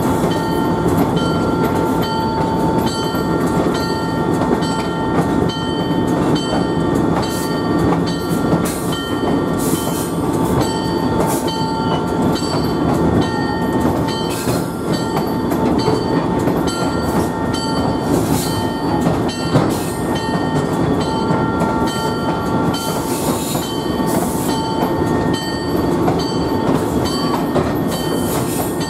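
Train in motion, heard aboard a car hauled by an Alco S-4 diesel switcher: a steady rumble with scattered clicks and knocks from the wheels on the track, and steady high whining tones over it throughout.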